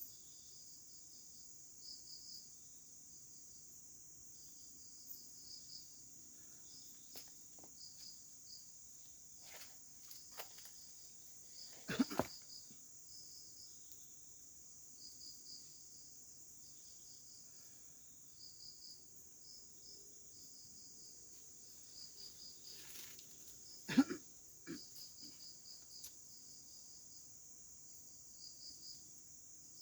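Faint, steady chorus of forest insects: a continuous high trill with rhythmic pulsed chirps beneath it. Scattered soft clicks, with two louder short knocks, one a little before the middle and one near the end.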